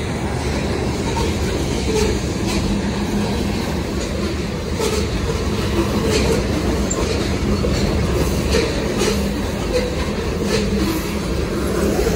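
Freight train of covered hopper cars rolling past close by: a steady rumble of steel wheels on rail, with scattered clicks as wheels cross rail joints.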